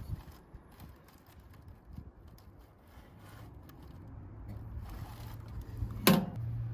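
Small handling clicks and knocks, then one sharp clank with a brief ring about six seconds in, over a steady low hum that comes in around halfway.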